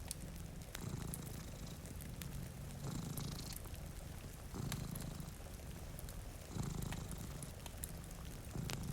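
Domestic cat purring close up, the purr swelling and easing about every two seconds with its breathing. Scattered sharp crackles of a wood fire sound over it.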